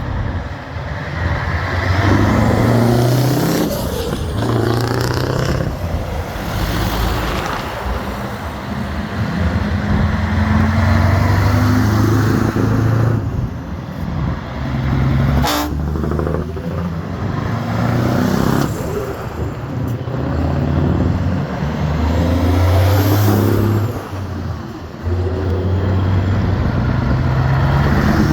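Old trucks driving past one after another, their engines running and rising and falling in pitch as each goes by.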